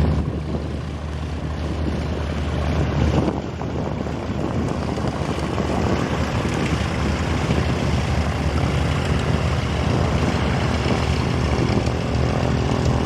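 Piston engine of a propeller-driven light aircraft running steadily.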